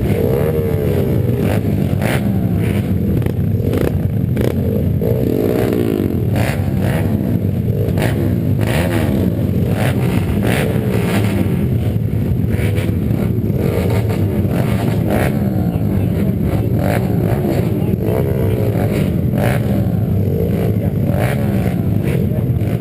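Pit bike engine racing on a motocross track, its pitch repeatedly rising under throttle and dropping back, with irregular knocks and rattles throughout.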